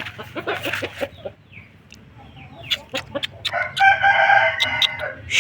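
Aseel rooster crowing once, a long call that starts about three and a half seconds in, after short clucking calls near the start and a few sharp clicks.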